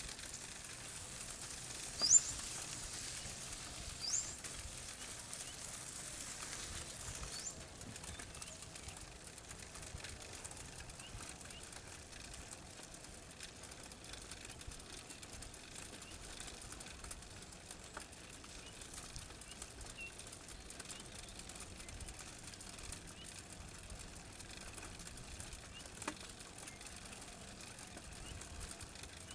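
Outdoor village ambience with a bird giving three short, sharp rising chirps in the first eight seconds, the first the loudest, over a high hiss that stops about seven and a half seconds in. Quieter faint chirps and background noise follow.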